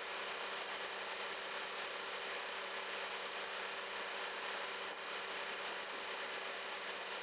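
Engine of a scrap-magnet excavator running steadily at a constant speed, a continuous hum over an even hiss.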